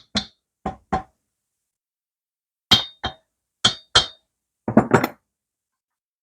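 Sharp metal taps and clinks in quick pairs, with a short cluster near the end, as the rocker arm assembly of a Moto Guzzi cylinder head is worked loose.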